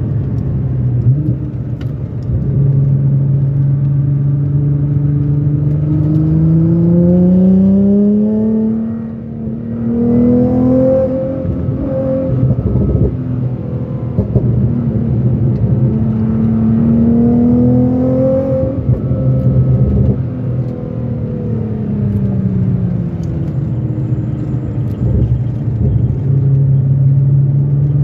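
GT-R's engine heard from inside its cabin while lapping a race circuit, with tyre and road noise underneath. The revs climb steadily, dip briefly about a third of the way in, climb again, then fall away as the car slows for a corner and settle at a lower steady pitch.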